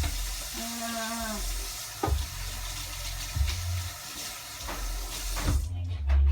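Kitchen tap running into the sink, a steady hiss of water that is shut off suddenly near the end, with a few low knocks of handling.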